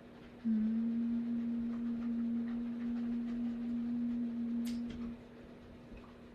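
A steady, even low tone held for about four and a half seconds, then dropping back to a faint lingering ring at the same pitch, with a short click near the end of the held tone.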